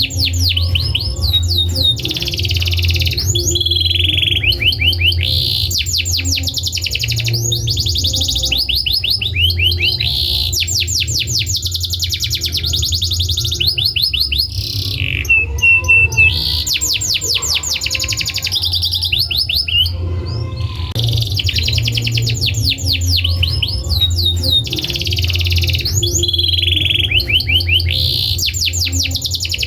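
Domestic canary singing a long, continuous song made of rapid repeated-note trills and rolls, with a few whistled notes partway through, over a steady low hum.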